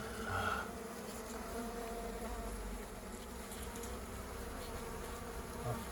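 Many honey bees buzzing steadily as a colony whose combs have just been cut out, with a brief higher tone about half a second in.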